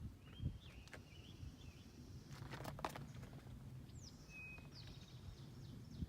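Faint songbird calls: short chirps and a falling whistle, with a few soft footsteps or knocks among them.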